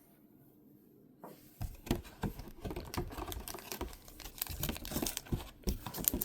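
Packaging being handled and rummaged through, with rustling, crinkling and irregular clicking starting about a second in.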